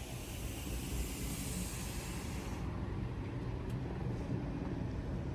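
Steady low rumble of a vehicle on the move, with a high hiss that drops away about two and a half seconds in.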